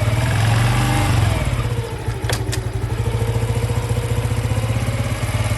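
Honda Cross Cub 110 (JA60) air-cooled single-cylinder engine running. It is revved briefly once near the start, then settles to a steady, evenly pulsing idle. Two sharp clicks sound about two and a half seconds in.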